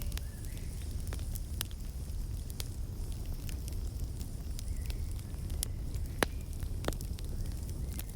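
Woodland ambience: sharp, irregular crackles and pops over a steady low rumble, with a few faint, short bird chirps.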